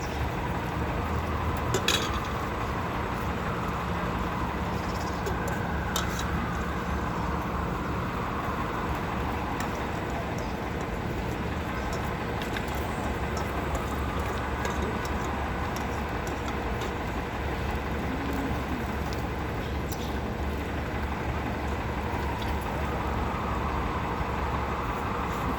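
Steady city street traffic noise, a constant rumble and hiss of passing vehicles, with a couple of short sharp knocks about two and six seconds in.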